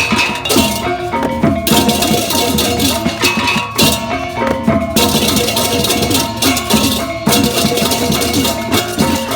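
Balinese gamelan playing: ringing tuned bronze tones over fast drumming, with stretches of bright clashing cymbals that start and stop every second or so.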